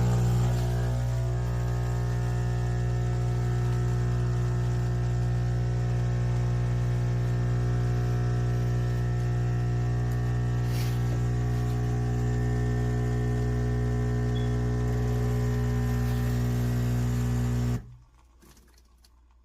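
Philips 3200 Series espresso machine's pump buzzing steadily as it dispenses a drink, then cutting off abruptly near the end.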